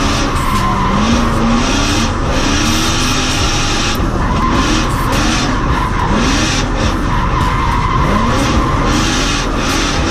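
BMW 4.4-litre V8 drift car drifting: the engine revs rise and fall again and again as the tyres skid and squeal.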